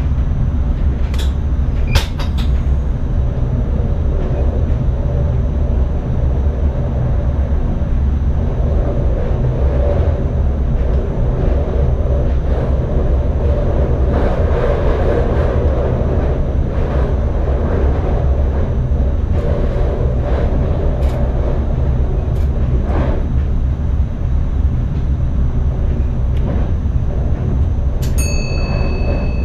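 NS ICM electric train running along the track, heard inside the driver's cab: a steady low rumble with a few sharp clicks in the first couple of seconds. A steady high beep starts near the end.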